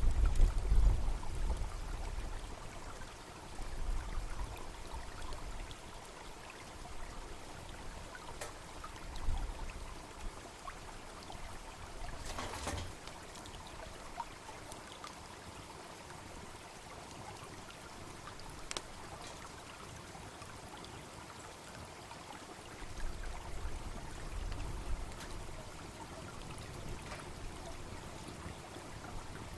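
A babbling brook running steadily alongside a wood campfire, with a few sharp crackles and pops from the burning wood. A low rumble sits underneath at the start and comes back about 23 seconds in.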